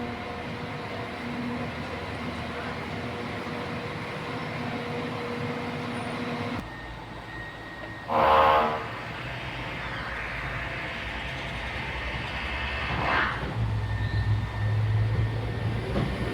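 Train horn sounding a short loud blast about eight seconds in and a shorter, fainter one about five seconds later, followed by the low rumble of the train building as it comes through the level crossing.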